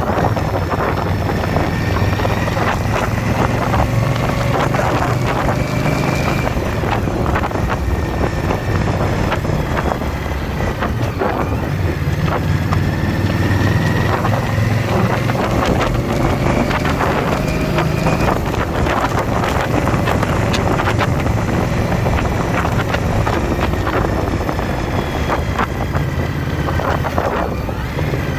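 Motorcycle V-twin engine running under way at riding speed, its pitch rising and falling slowly with the throttle, with wind rushing over the microphone.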